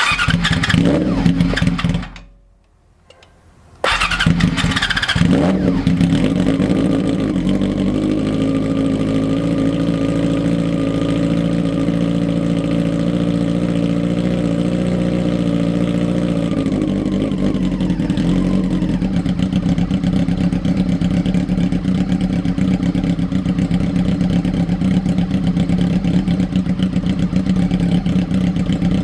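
1999 Yamaha YZF-R6's 600 cc inline-four through an Austin Racing aftermarket exhaust: it runs for about two seconds, cuts out, then starts again suddenly about four seconds in. It revs up briefly and settles to a steady idle, which drops a little in pitch about two-thirds of the way through.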